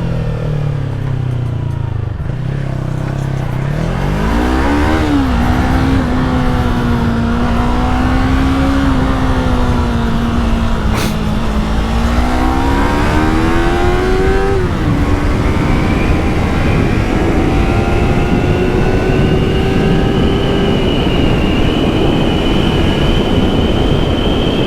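Yamaha MT-03's parallel-twin engine on its stock exhaust, accelerating hard through the gears. The pitch climbs and drops sharply at the gear changes about five seconds in and again after about fifteen seconds, then holds high revs and rises slowly, over steady wind and road rush.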